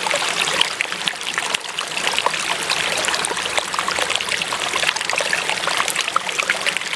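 Water trickling and splashing over stones in a small stream, a steady babble with many small bright splashes.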